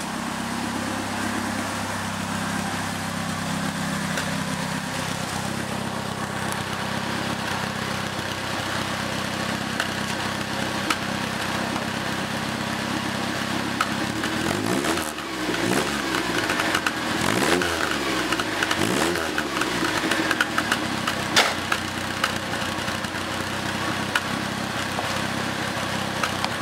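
Triumph Dolomite 1300 four-cylinder engine, warmed up, idling steadily through the exhaust, then blipped three times about halfway through, each rev rising and falling, before settling back to a smooth idle. Described as sounding sweet, the sign of a healthy engine after the swap.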